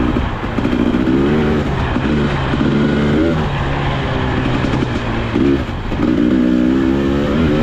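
2022 Husqvarna TE300i's single-cylinder two-stroke engine under a rider on a dirt track, revving up and backing off again about five times as the throttle is opened and closed.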